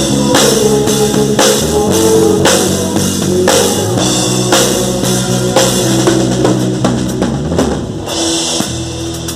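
Band playing an instrumental passage: a drum kit hitting about once a second over sustained bass and chord tones, with a cymbal wash near the end.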